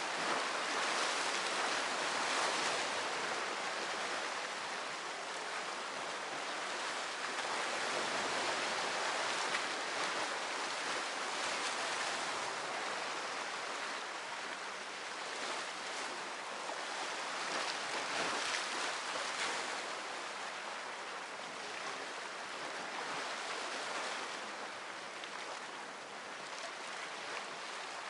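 Sea surf: waves breaking and washing on the shore in a continuous wash that swells and eases every few seconds.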